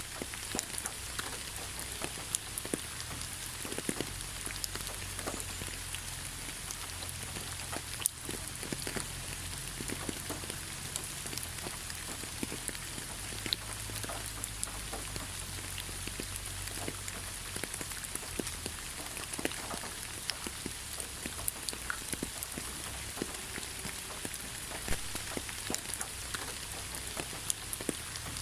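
Steady rain falling on forest foliage, a constant hiss with many separate drops pattering sharply on leaves and surfaces.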